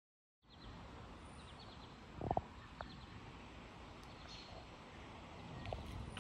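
Faint woodland ambience: a steady hiss with a few short, high bird chirps and a brief low thump about two seconds in.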